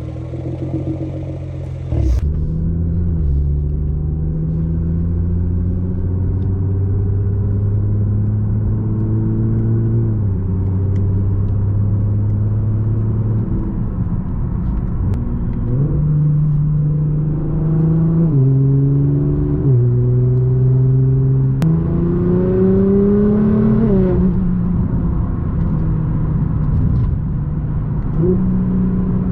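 Nissan GT-R's 3.8-litre twin-turbo V6 running on the road. Its pitch climbs under throttle and steps down or up at several gear changes, rising most strongly about two-thirds of the way through.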